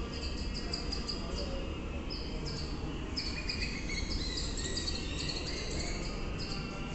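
Small birds chirping in quick, short, high notes at varying pitches, busiest in the middle, over a low steady rumble.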